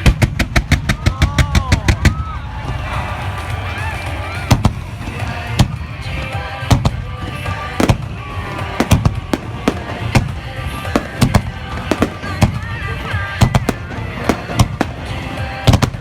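Fireworks bursting: a rapid volley of about eight bangs a second for the first two seconds, then scattered single bangs about once a second. Music plays underneath.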